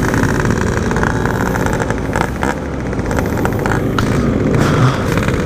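Yamaha RX-King two-stroke single-cylinder engine running under way through a stock-style 'belek' exhaust.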